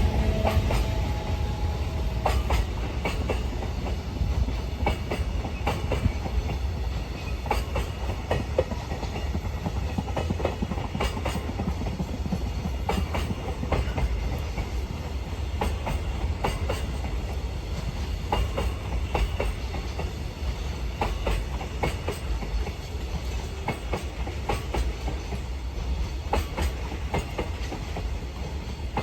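Container freight train rolling past: a steady low rumble with wheels clacking over rail joints again and again.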